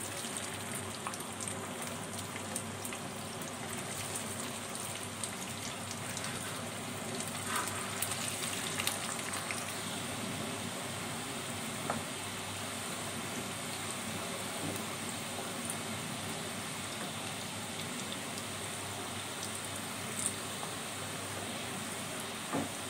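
Sliced bitter gourd frying in hot oil in a pan: a steady sizzle with occasional small sharp pops.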